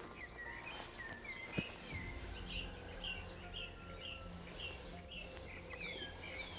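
Songbirds singing: a run of short, repeated down-slurred chirps over steady low background hum, with a single sharp click about a second and a half in.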